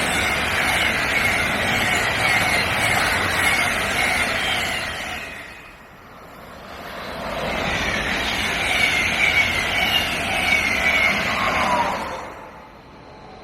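Rushing noise of trains passing at speed through a station, with short falling squeals from the wheels. It swells twice, dipping to a lull about six seconds in, and dies away near the end.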